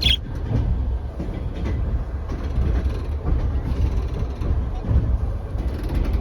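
Passenger train running, heard from inside a compartment: a steady low rumble, with a short high squeak at the start and a few faint knocks.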